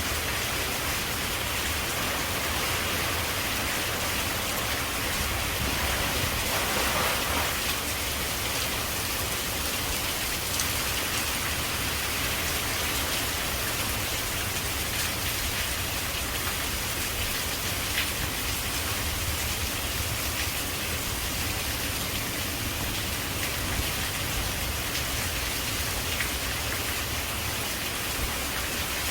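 Steady rain falling on leaves, with scattered louder drops here and there.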